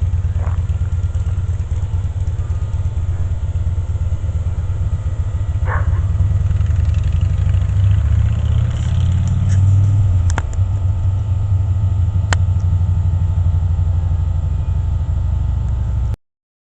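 Motorcycle engine idling with a steady, low rumble, cutting off suddenly near the end.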